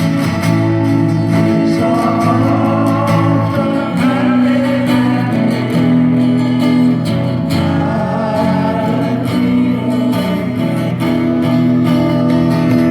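Acoustic guitar strumming a steady accompaniment to a slow song.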